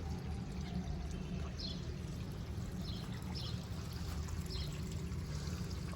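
Water pouring steadily from a garden hose into an irrigation channel in the soil.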